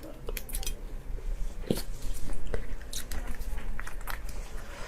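A person eating close to the microphone: biting and chewing, with irregular sharp mouth clicks and smacks.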